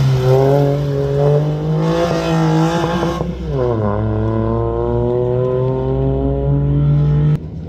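Rally car engine under hard acceleration. The revs climb, fall away about three seconds in, climb steadily again, and drop off sharply near the end.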